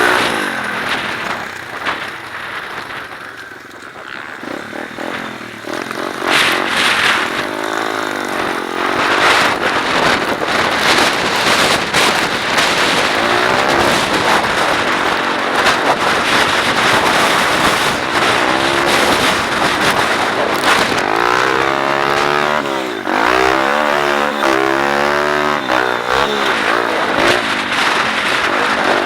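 A 125cc I-Moto pit bike engine revving up and down repeatedly as it is ridden, its pitch rising and falling with the throttle, over a steady rush of wind noise. The sound eases off briefly about three to four seconds in.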